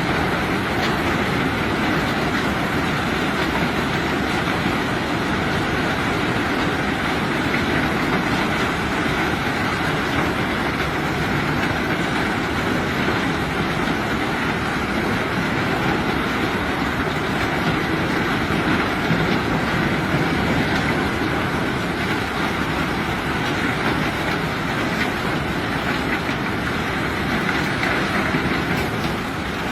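Steady, continuous rattle and rumble of heavy rock unloading, dense and unbroken.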